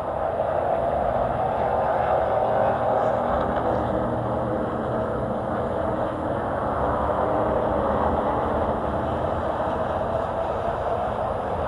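Race truck engine running continuously at racing speed, its pitch rising and falling slightly.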